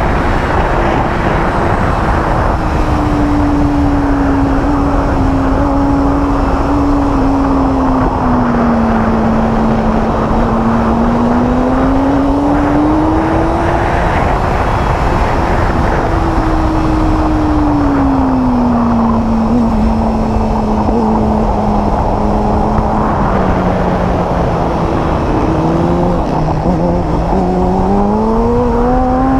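Inline-four sport bike engine running hard at speed, heard with heavy wind noise. Its note sinks and climbs slowly as the speed changes, then rises steeply near the end.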